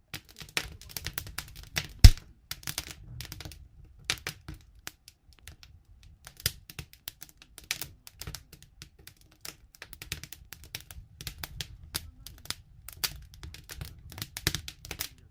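Wood campfire crackling with irregular snaps and pops over a low steady rumble of the flames, with one sharp loud pop about two seconds in.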